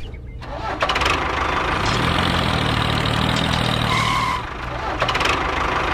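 An engine idling steadily, with a brief high tone about four seconds in.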